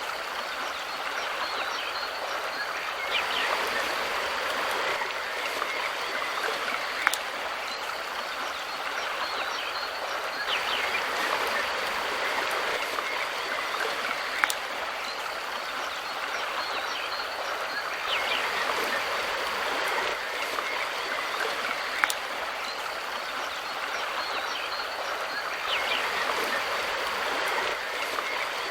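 Mountain river stream rushing steadily, with a few brief bird chirps and a sharp click about every seven and a half seconds.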